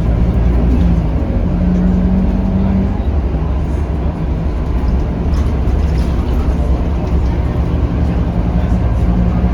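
Scania K310UB city bus heard from on board: the engine drones steadily under a low hum of road noise as the bus drives along.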